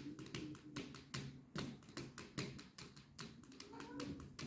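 Quick, irregular light tapping, several taps a second.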